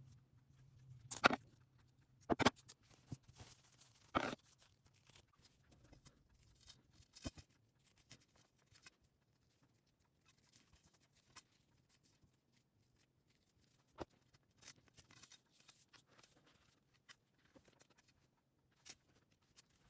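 Faint handling noises: scattered small clicks and rustles, with three louder sharp knocks in the first four seconds.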